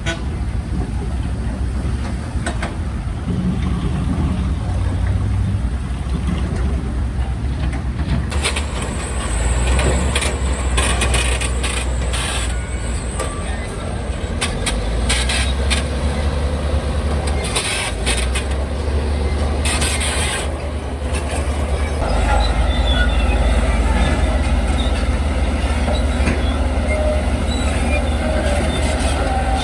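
Diesel engines of heavy earthmoving machines running, with a run of sharp metallic knocks and clanks through the middle and a short hiss about twenty seconds in.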